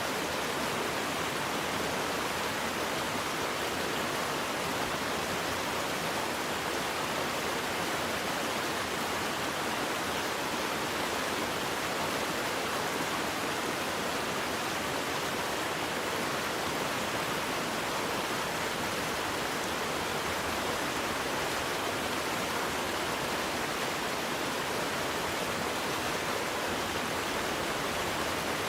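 Waterfall: a steady, unbroken rush of falling water with no changes or distinct splashes.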